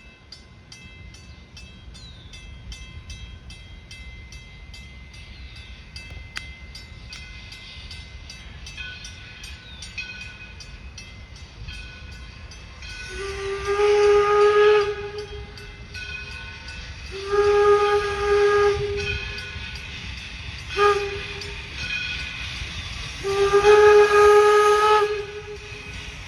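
A 4-4-0 steam locomotive running with a steady rumble and regular ticking, then its steam whistle sounds four blasts starting about halfway through: long, long, short, long, the grade-crossing signal.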